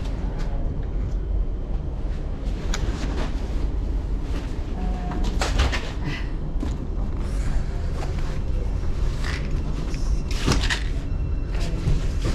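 Low, steady rumble inside a commuter train carriage, with scattered knocks and rattles from the carriage.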